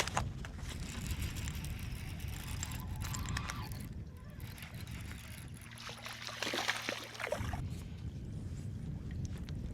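Water sloshing and splashing against a fishing kayak's hull, over a steady low rumble, with a few light clicks and knocks.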